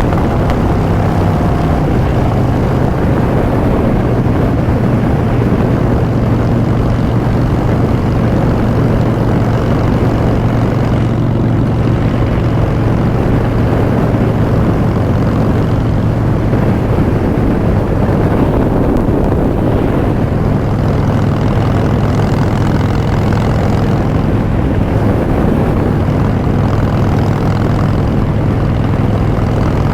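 A 2016 Harley-Davidson Street Bob's V-twin runs steadily under way through Vance & Hines Short Shots exhaust. Its note steps up slightly about twenty seconds in.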